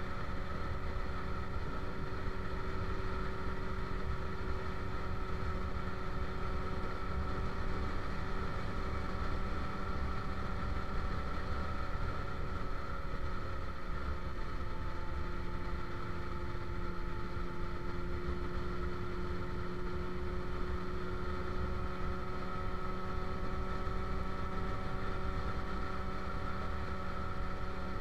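Motorcycle engine running at a steady cruise, a constant drone whose pitch sags a little mid-way and then rises again, over low wind and road rumble.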